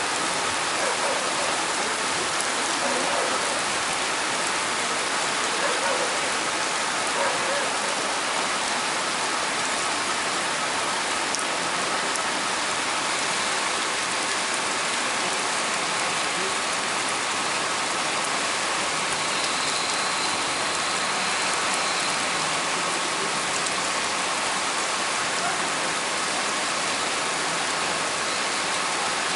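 Torrential rain falling in a steady, unbroken hiss.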